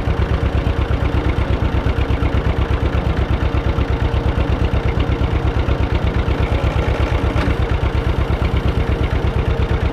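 John Deere 630 two-cylinder tractor engine running at a steady idle, an even, rapid beat of exhaust pulses. The owner puts a light ticking from it down to a small exhaust manifold leak.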